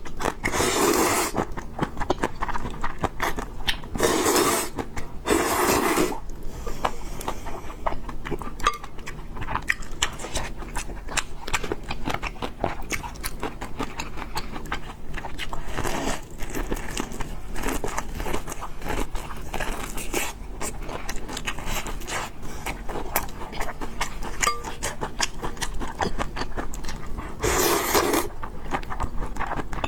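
Close-miked eating sounds of a person eating noodles and pork: continuous chewing with many small wet clicks, and a few louder bursts about a second long, near the start, twice around four to six seconds in, and again near the middle and the end.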